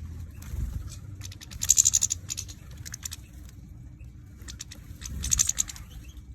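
Small caged songbirds moving about and pecking at seed: two bursts of rapid light taps and scratches, about a second and a half in and again near the end.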